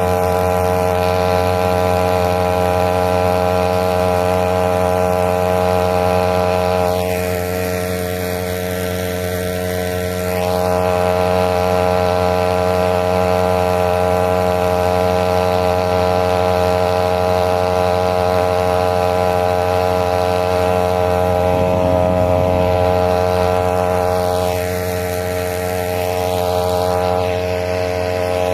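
Small boat engine running at a steady speed, its pitch held constant; twice the sound dulls and drops a little in loudness for a few seconds.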